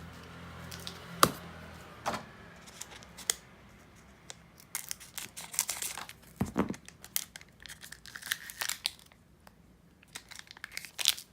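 Foil wrapper of a Pokémon trading card booster pack being torn open and crinkled by hand: irregular crackling and ripping with a few sharper snaps.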